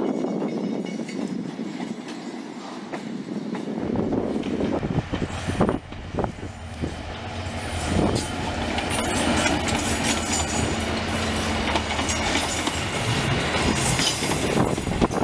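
Wind hiss on the microphone, then, about four seconds in, a diesel locomotive and its passenger coaches passing close by. The engine runs with a steady low note, and the wheels clack over the rail joints and squeal, growing brighter as the coaches go by.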